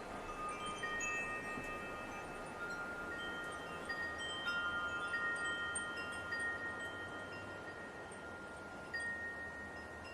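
Wind chimes ringing as the wind knocks them: clear metallic tones struck at irregular moments, each ringing on for a second or more, over a soft hiss of light wind.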